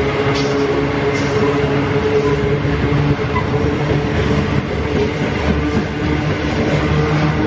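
Freight train of covered hopper wagons rolling past, a steady rumble of wheels on rail with no horn or break in the sound.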